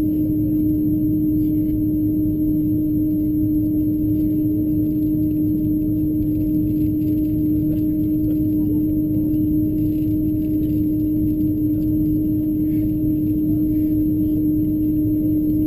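Steady cabin drone of an Airbus A330-223 taxiing with its Pratt & Whitney PW4000 engines at idle: a low rumble with a single humming tone held on top.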